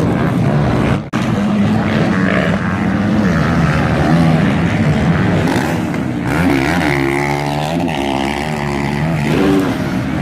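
Motocross bike engines running hard, their pitch rising and falling as the throttle opens and closes, with a sudden brief gap about a second in.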